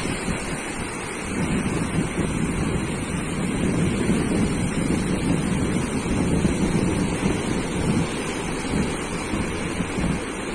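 Sea surf washing onto a beach, a continuous rushing noise that swells louder for several seconds in the middle and then eases, with wind rumbling on the microphone.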